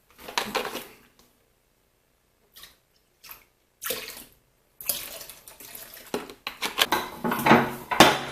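Liquid paint cleaner sprayed onto a grimy vise: a few short spritzes, then a longer run of irregular spraying from about five seconds in.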